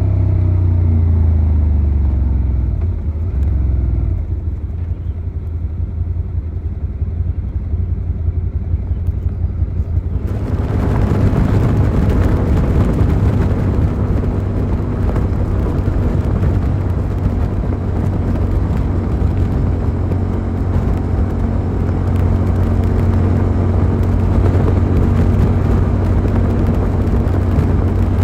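Suzuki SV650's V-twin engine slowing, its pitch falling over the first few seconds, then running low and steady. About ten seconds in, wind and road noise rise sharply over a steady engine note as the bike picks up and holds speed.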